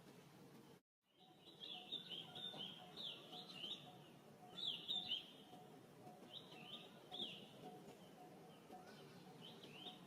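Repeated short, high-pitched chirping calls in quick clusters, starting after a brief dropout about a second in and loudest around the middle.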